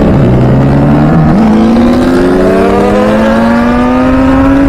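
Motorcycle engine through an aftermarket full-system exhaust, its note stepping up about a second in and then rising slowly as the revs climb.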